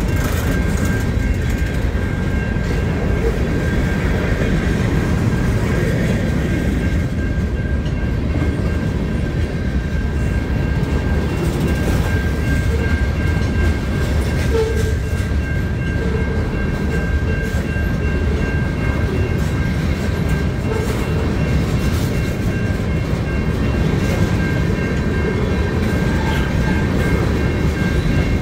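Freight train cars rolling past: a steady low rumble of wheels on rail, with scattered clicks as the wheels cross rail joints and a few faint steady high-pitched tones above it.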